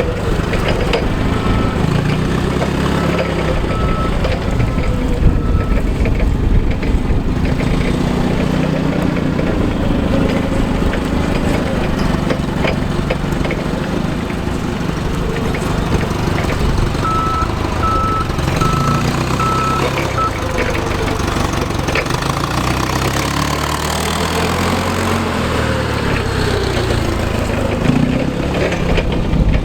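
Clark 3,000-pound forklift's engine running, its pitch rising and falling as it is worked, with the backup alarm beeping in two short runs, one near the start and one a little past halfway.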